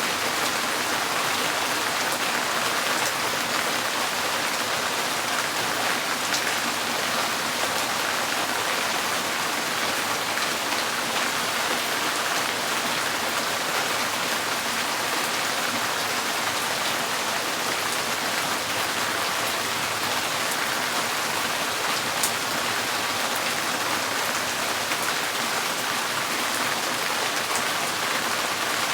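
Steady rain pattering on a tin porch roof, with a few louder single drops ticking through it.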